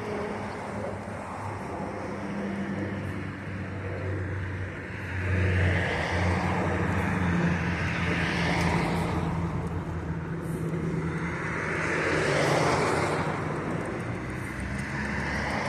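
Street traffic: cars passing, two passes swelling up and fading away, about five and about eleven seconds in, over a steady low engine hum.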